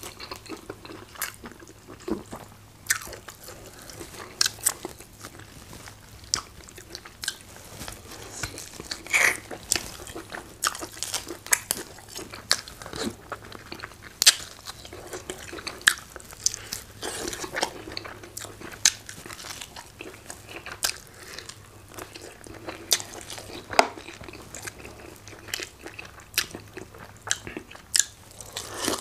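Close-miked eating: biting and chewing hard chicken, with many irregular, sharp crunches and clicks.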